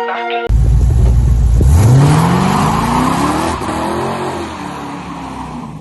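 Car engine revving hard as the car accelerates, its pitch climbing for about two seconds before it eases off and fades.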